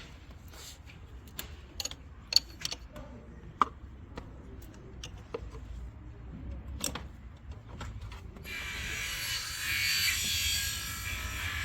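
Scattered clicks and knocks of hand tools on metal engine parts. About eight seconds in, a small power tool starts and runs steadily for about three seconds as fasteners are undone on the engine's injector area.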